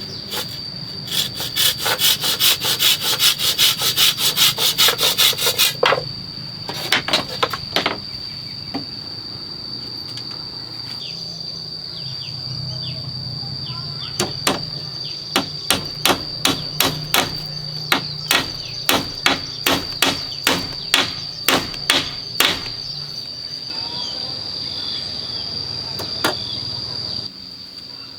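Hand work on wood: a run of quick rasping strokes like sawing for several seconds, then hammer blows on wood at about two a second. A steady high insect drone runs underneath.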